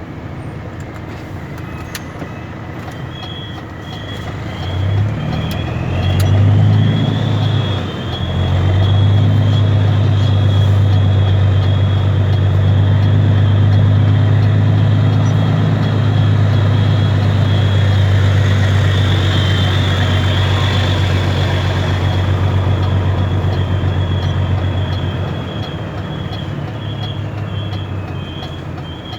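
Mercedes-Benz Actros 2636 V6 diesel with a straight-through exhaust, running louder from about five seconds in and holding a steady deep drone for some fifteen seconds before easing off near the end.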